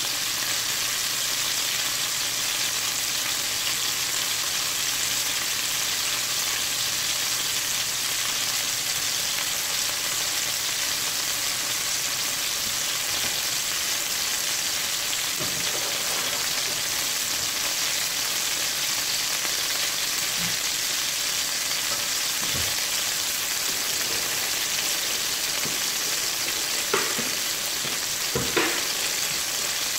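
Chicken pieces sizzling as they brown in butter and olive oil in a stainless steel pan: a steady frying hiss, with a couple of sharp pops near the end.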